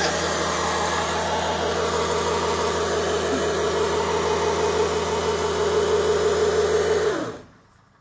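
Car engine with a handful of bolts in its oil, held at high revs under load, then cutting out abruptly with a falling pitch about seven seconds in as the engine bay smokes and burns.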